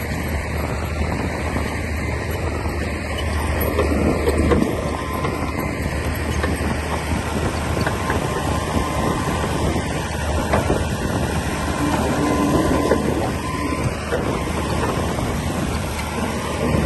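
Komatsu D60P bulldozer's diesel engine running steadily with a low hum, with a few short knocks over it.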